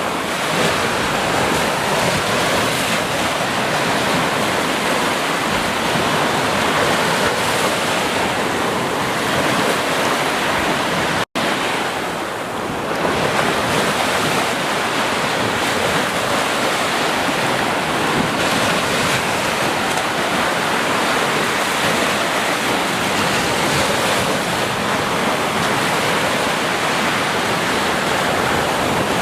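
Ocean surf washing steadily onto a beach, a continuous even rush of breaking waves. About a third of the way through the sound cuts out for a split second and resumes.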